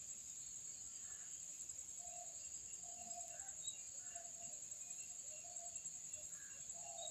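Outdoor ambience of insects giving a steady, unbroken high-pitched drone, with a few short faint calls scattered through it.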